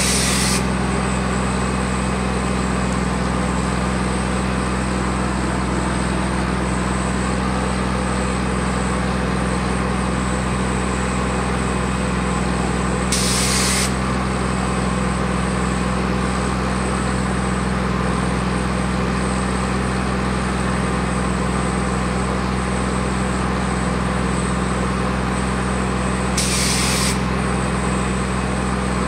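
Fire truck engines running steadily at pumping speed to drive the pumps. Three short hisses of air come about thirteen seconds apart.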